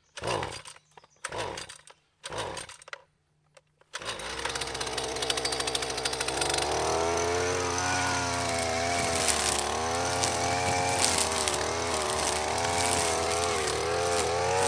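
String trimmer (weed eater) engine cutting down overgrown weeds: a few short bursts about a second apart, then about four seconds in it starts running steadily, its pitch rising and falling as it works.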